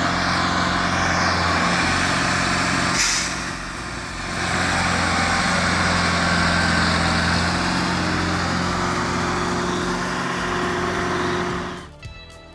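Logging truck's diesel engine running steadily, with a short air hiss about three seconds in and a brief drop in level before it picks up again; the sound cuts off near the end.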